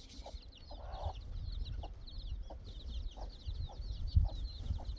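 Chickens clucking in short repeated calls over a constant stream of high-pitched cheeping, with a low rumble underneath and a sharp thump about four seconds in.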